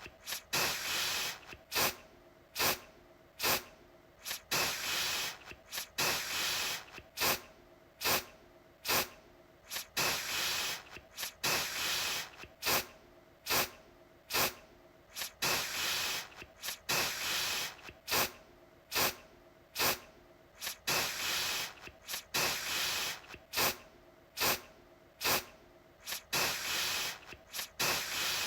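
Aerosol deodorant can spraying in repeated bursts, a mix of short sharp puffs and longer hisses of about a second each, one after another with brief gaps.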